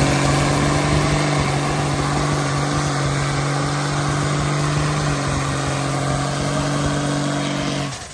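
A vehicle engine revved up and held at a steady high speed, loud, with a heavy rushing noise over it, cutting off suddenly near the end.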